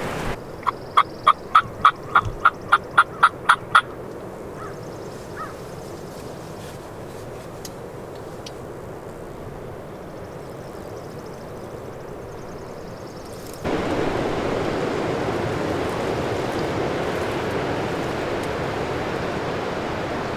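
A turkey yelp series: about eleven evenly spaced, clear yelps at roughly three a second, lasting about three and a half seconds. About two-thirds of the way through, a steady rush of wind noise on the microphone starts abruptly.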